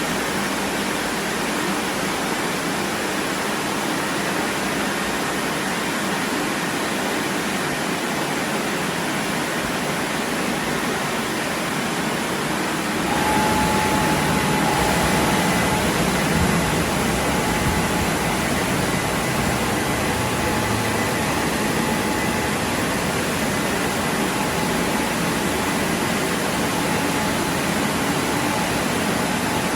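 WashTec SoftCare Pro Classic rollover car wash running with a steady rushing noise. About 13 seconds in it grows louder and a steady whine joins in as more machinery starts up.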